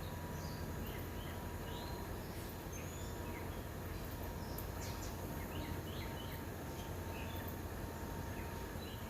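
Small birds chirping with short, scattered calls, several overlapping, over a steady low background hum.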